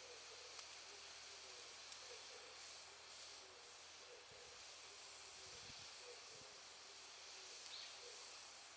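Quiet bonfire of wood and cut charcoal hissing softly, with a few faint pops.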